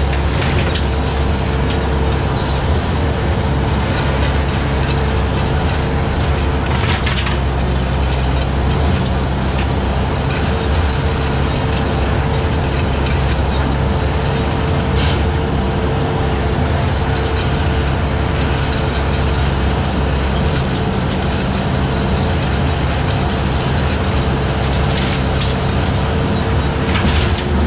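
Skid steer engine running steadily under load while driving a 72-inch brush cutter through long grass, with a few brief sharp cracks scattered through.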